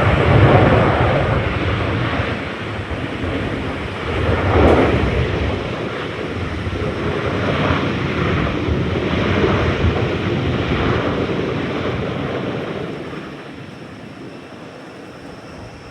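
Jet airliner engines passing close by, a loud rushing drone that swells twice in the first seconds and then fades away over the last few seconds.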